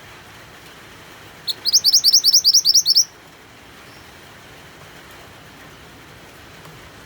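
A mantenan songbird singing one fast trill of about fourteen rising high chirps, roughly nine a second, lasting a second and a half, over a steady rain-like hiss.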